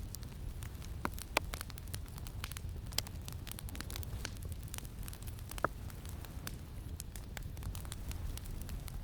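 Campfire crackling, with scattered sharp pops of burning wood over a steady low rumble of wind. The loudest pops come about a second and a half, three seconds and five and a half seconds in.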